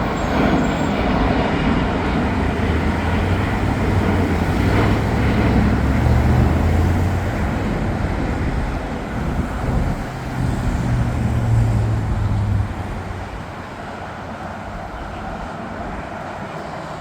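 Loud, steady engine roar with a deep rumble, dropping off suddenly about thirteen seconds in.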